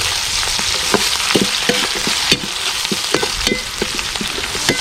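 Green chillies, ginger and curry leaves sizzling in hot coconut oil while being stirred, the spoon clicking and scraping against the pan many times, some strikes leaving a brief ring.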